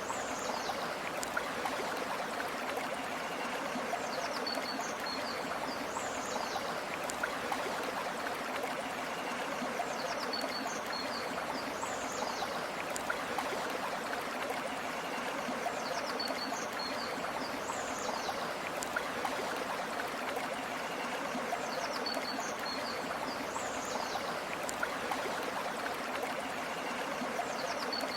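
Steady flowing stream water, an even rushing babble. A brief high chirping call recurs at even intervals about every six seconds above the water.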